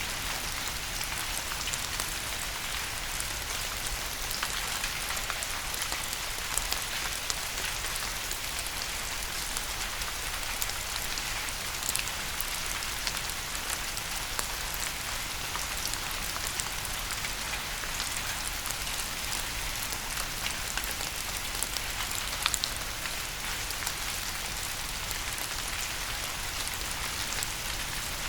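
Steady rain: an even hiss of falling rain dotted with many sharp ticks of single drops.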